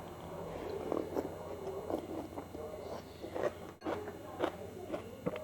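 Close-up eating sounds from a person chewing bakso meatballs: irregular wet smacks and clicks, roughly one a second.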